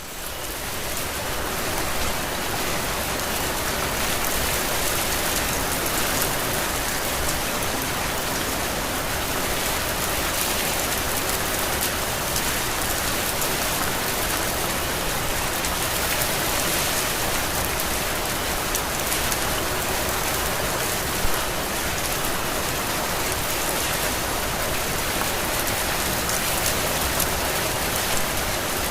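Heavy, steady rain pouring on surfaces, a dense even hiss of drops that swells back up over the first second or two. One sharper drop stands out about two-thirds of the way through.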